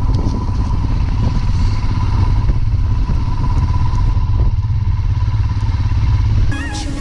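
Royal Enfield Himalayan single-cylinder motorcycle engine running steadily under way, with an even beat of firing pulses. About six and a half seconds in, it drops away under background music.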